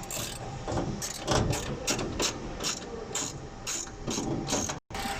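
Ratcheting driver clicking in a quick, uneven run of about four to five clicks a second as a screw is backed out.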